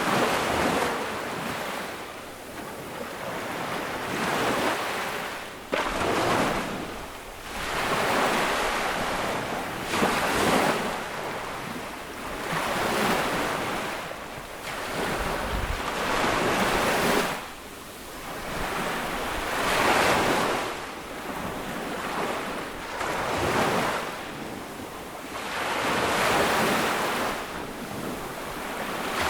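Ocean waves breaking on a beach and washing up the sand, a rushing surge every two to three seconds, with wind on the microphone. A brief sharp click about six seconds in.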